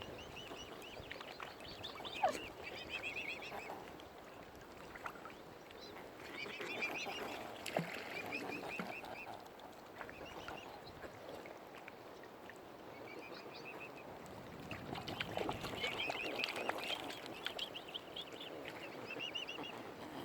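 Waterfowl calling in several bursts of short, high, rapidly repeated calls, with some lower calls among them.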